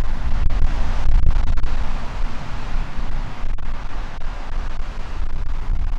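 RS-25 liquid-hydrogen/liquid-oxygen rocket engine firing on a test stand: a loud, steady, deep rumble with scattered sharp crackles.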